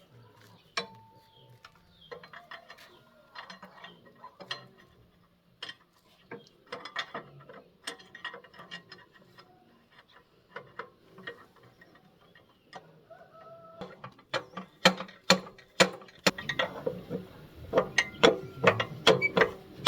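Metal tools and parts clicking and clinking in an irregular run of sharp knocks, some leaving a short metallic ring. The knocks come faster and louder in the last few seconds.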